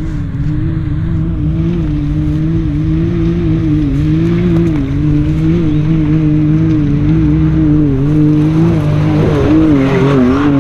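Side-by-side UTV engine working hard up a steep climb, its pitch rising and falling as the throttle is worked. Rougher noise swells in near the end.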